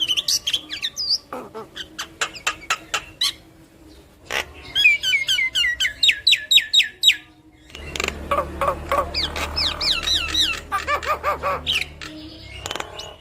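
Javan myna singing a busy, varied song: sharp clicks, whistled glides and fast runs of repeated chattering notes, with a brief pause about four seconds in.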